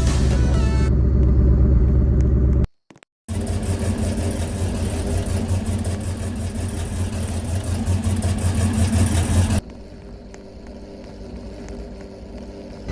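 A car engine running with a steady low drone, cut off briefly just under 3 s in. It resumes louder with road or exhaust noise, then drops about 9.6 s in to a quieter steady engine hum. Background music fades out about a second in.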